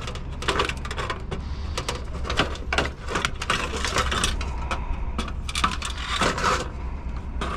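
Scrap metal being handled: repeated light metallic clicks, clinks and rattles, over a steady low hum.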